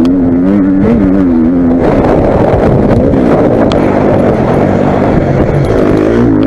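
Four-stroke motocross bike engine running hard, revving up and down as the throttle opens and closes. It is loud and close, with the pitch rising and falling through the middle and dipping sharply just before the end.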